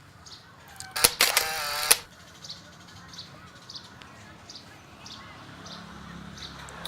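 A click, then a single loud harsh screeching call of just under a second from the night bird, its pitch wavering. Faint short high chirps repeat roughly every half second throughout.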